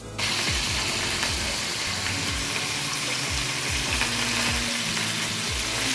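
Flour-dusted chicken drumsticks deep-frying in a pot of hot oil: a steady sizzle that starts abruptly at the beginning, with the beat of background music underneath.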